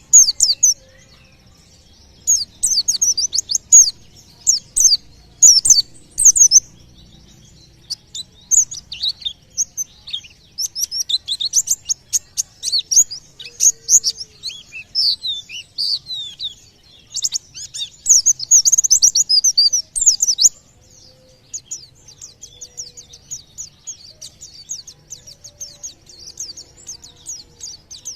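A white-eye (pleci) singing a rapid, high twittering song in bursts of quick chirps with short pauses between, then a softer, steady run of fast chirps near the end. This is the 'tembakan' song that keepers play to get other caged birds singing.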